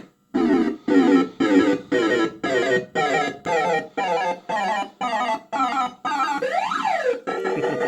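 Bell-Fruit Cash Explosion fruit machine's electronic sound effects: a run of short bleeping notes, about two a second, each falling quickly in pitch, then a swoop down and back up, then a held tone near the end.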